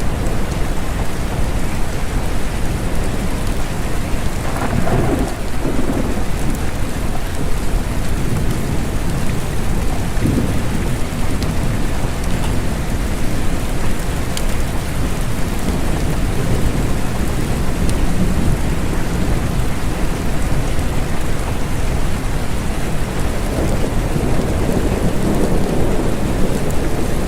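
Steady rain with deep rumbles of thunder, one swelling about five seconds in and another near the end.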